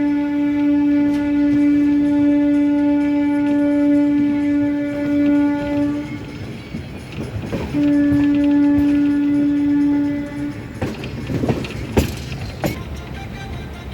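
Locomotive horn sounding a long, steady blast that stops about six seconds in, then a second blast of about three seconds. After it, a few sharp knocks over a noisy background.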